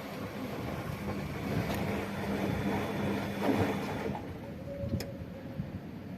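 Washing machine running with a steady low hum after its drum bearings were replaced. The hum stops about four seconds in, and a single click follows.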